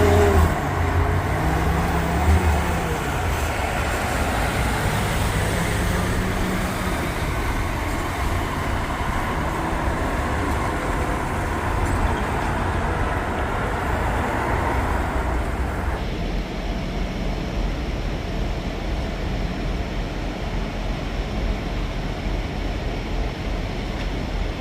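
Steady traffic and engine noise from big rigs. In the first several seconds one truck engine's note rises and falls. About two-thirds of the way through, the sound turns duller.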